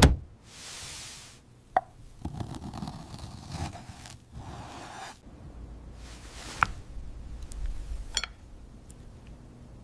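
Light kitchen handling sounds: a few scattered knocks, clinks and plops, with a short hiss about half a second in.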